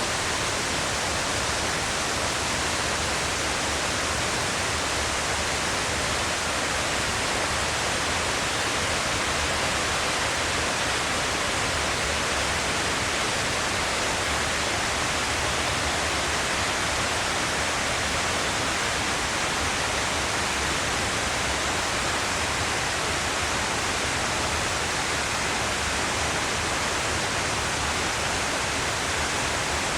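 Waterfall of the Yonako Great Falls pouring down a cliff: a steady, unbroken rush of falling water.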